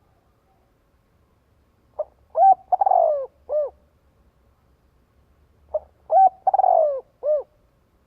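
Spotted dove cooing: two phrases of several notes each, a short note, quick arching coos and a longer coo that slides down in pitch, about four seconds apart.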